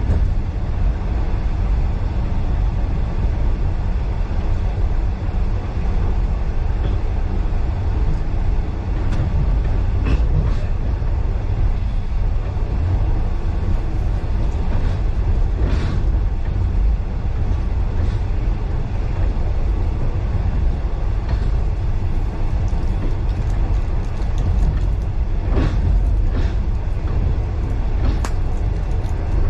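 Train carriage running along the track: a steady low rumble of wheels on rails, with a few sharp clicks at irregular moments.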